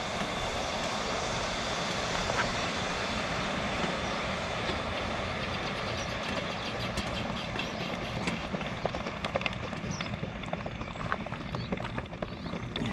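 A steady rushing noise, with a run of light clicks and taps that grows busier in the second half.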